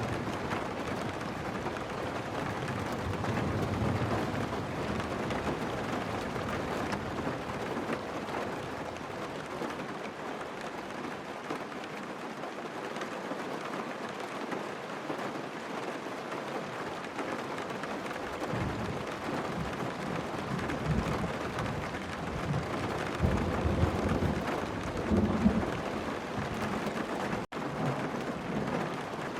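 Steady rain falling on a car, heard from inside the cabin, with low rolls of thunder in the second half.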